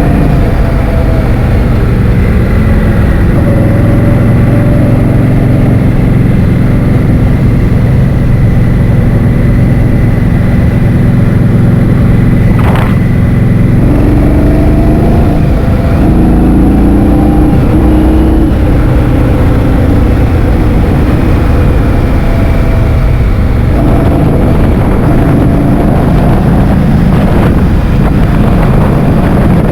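Heavy wind buffeting the microphone over a running vehicle engine, whose pitch steps up and down as the speed changes. There is one sharp click about halfway through.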